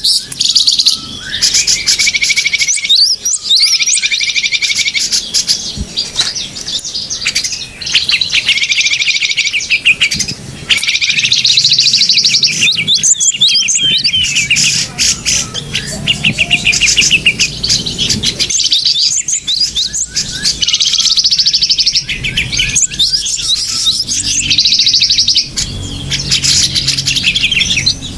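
Small birds chirping and trilling in rapid, repeated phrases, loud and continuous: a bird-lure call recording played to draw small birds in.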